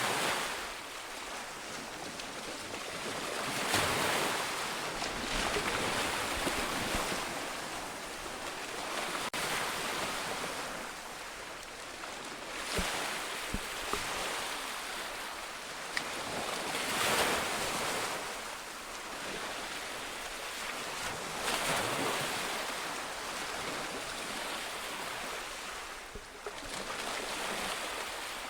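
Ocean waves breaking on a shore, swelling and falling back every four to five seconds, with some wind on the microphone.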